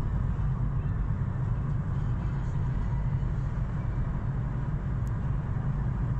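A vehicle's engine running steadily, a low even hum.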